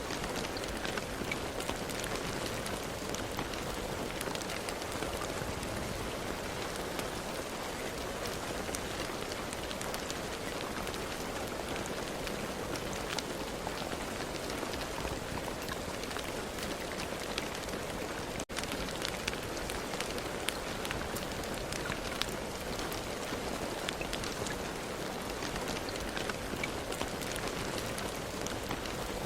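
Steady rain falling, an even hiss with many separate drops heard as sharp ticks. The sound cuts out for an instant about two-thirds of the way through.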